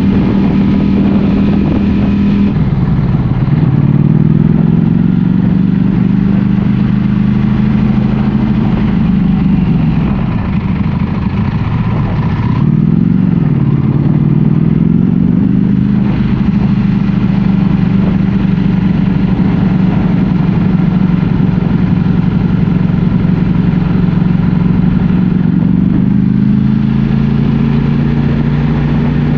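Ducati Panigale V4 S's 1,103 cc V4 engine running under way. Its pitch drops about two and a half seconds in, dips and climbs again around ten to thirteen seconds in, holds steady for about ten seconds, then rises near the end.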